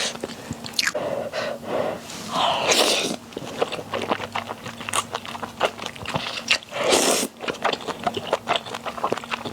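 Close-miked eating sounds: chewing with many small wet mouth clicks, and two longer rushing sounds, one about two and a half seconds in and one about seven seconds in.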